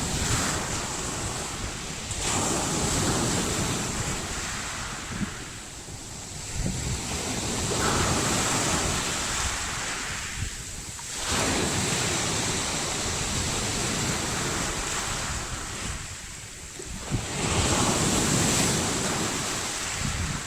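Surf of a slightly stormy sea, the waves swelling and falling away about every five seconds, with wind buffeting the microphone.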